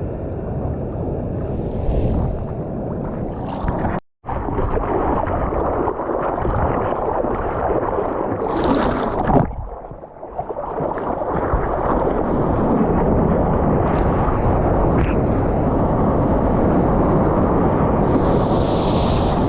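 Surf and rushing water with wind buffeting a GoPro action camera's microphone out in the waves. The sound cuts out for a split second about four seconds in.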